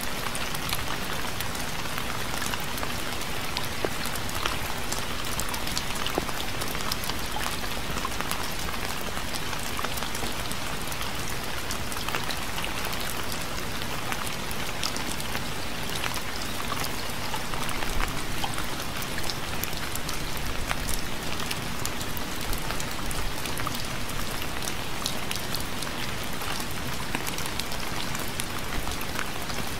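Steady rain falling on a surface, a constant hiss with many individual drop ticks throughout.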